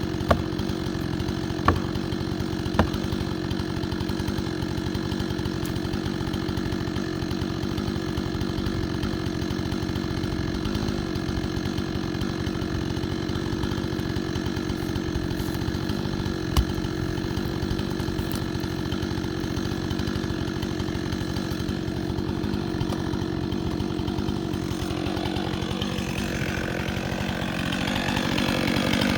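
Chainsaw engine idling steadily, with a few sharp clicks, then starting to rev up near the end.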